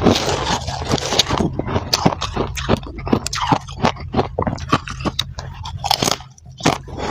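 Freezer frost being bitten and chewed close to the microphone: an irregular run of crisp crunches, with a scratchy scraping sound in the first second or so.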